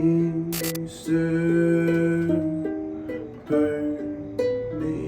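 Chords strummed on a small acoustic string instrument in an instrumental break, a new chord struck about every second, with a short hiss about half a second in.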